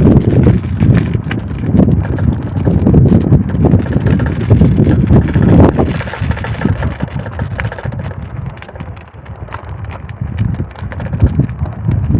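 Wind buffeting the microphone on a moving bicycle, a loud uneven low rumble, with scattered clicks and rattles from the bike as it rolls. The rumble eases off for a couple of seconds past the middle, then picks up again.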